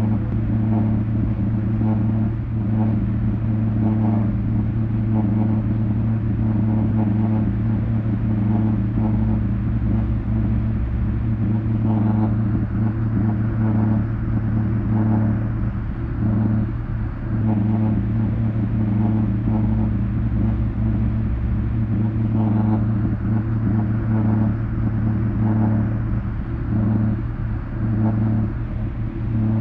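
A looped audio track from a vinyl record played through a subwoofer: a steady, loud low drone with fainter pulsing above it, the loop repeating about every ten seconds.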